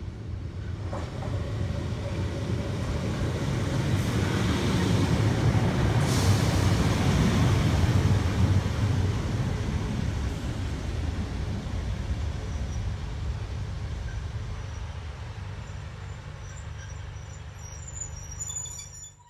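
A Class 153 single-car diesel railcar runs past with its engine going and its wheels on the rails. It builds to its loudest about seven seconds in, then slowly fades as it draws away. Near the end a few bird chirps come through before the sound cuts off suddenly.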